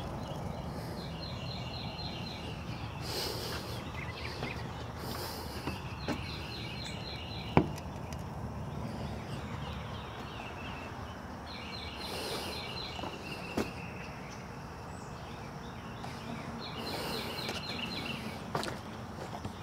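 A bird singing a short phrase of rapid repeated high notes, about every five seconds, over rustling and footsteps. A sharp knock or snap, the loudest sound, comes about seven and a half seconds in.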